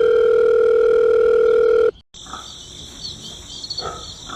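A loud, steady electronic beep tone held for about two seconds that cuts off abruptly. After a brief gap, crickets chirr steadily in the background, with a few faint clicks.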